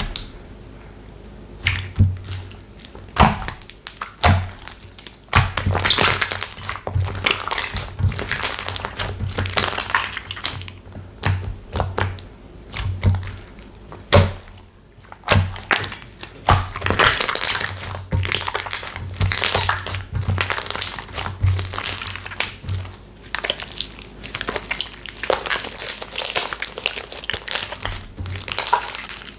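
Slime being pressed, stretched and folded by hand, giving a quick, irregular run of crackles, pops and soft squishy thuds.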